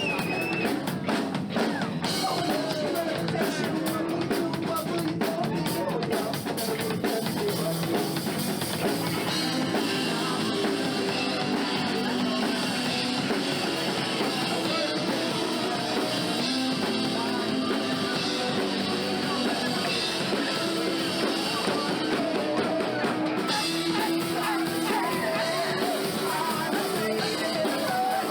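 Live rock band playing an original song: drum kit, electric guitar and bass, with a keyboard and singing.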